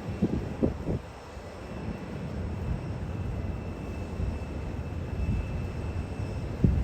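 Boeing 737-800's CFM56 jet engines running at takeoff power, a steady low rumble with a faint high whine. A few short low thumps come in the first second and again near the end.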